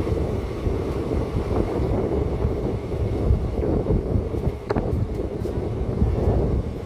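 Moving passenger train, a steady low rumble of wheels on track with wind buffeting the microphone. A brief click about two-thirds of the way through.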